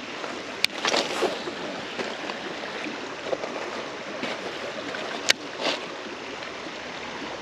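Steady rush of flowing creek water, broken by two sharp clicks and a few short splashy rustles.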